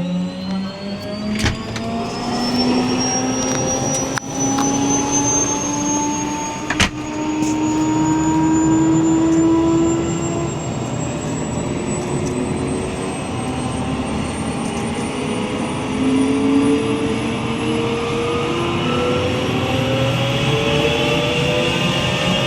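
Helicopter turbine engine spooling up, its whine rising slowly and steadily in pitch, with two sharp clicks in the first several seconds.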